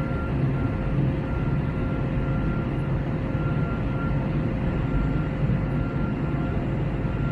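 Steady cabin noise of an Airbus A321neo in flight: the low drone of its Pratt & Whitney geared turbofan engines and the rush of airflow, with a faint steady whine over it.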